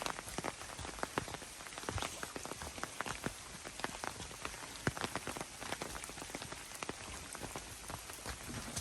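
Rain falling in a bamboo grove: a steady hiss of rain with many sharp, irregular drops striking close by.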